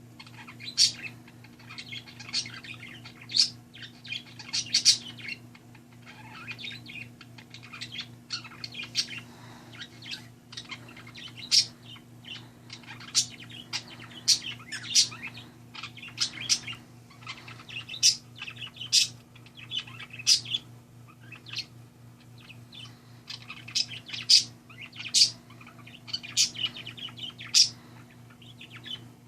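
Pet parakeet singing: a run of short, sharp chirps and chattering warble that goes on the whole time, over a steady low electrical hum.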